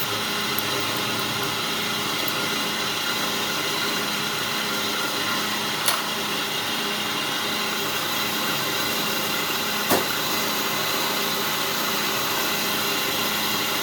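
Steady mechanical running noise, an even hum and hiss with a few constant tones in it, with a sharp click about six seconds in and another about ten seconds in.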